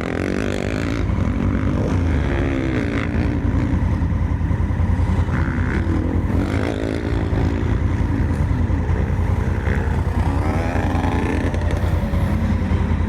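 Honda Africa Twin's parallel-twin engine being ridden off-road, its revs rising and falling over and over.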